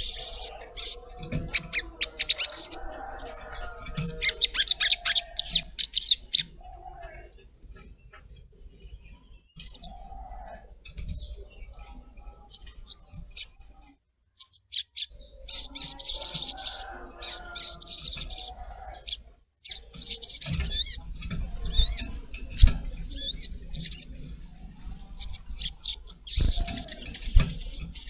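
Sogok ontong (little spiderhunter) calling in bursts of rapid, high, sharp chirps and twitters, with long pauses between the bursts. This is a lure call used to set a kept bird singing.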